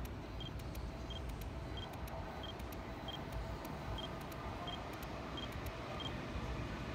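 Low, steady rumble of a Seibu 2000-series electric train approaching along the tracks at low speed. A short high beep repeats about every two-thirds of a second and stops about six seconds in.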